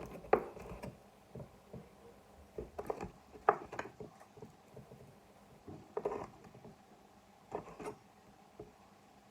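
Knife cutting raw chicken on a chopping board, with scattered knocks of the blade on the board every second or two and quiet scraping between them.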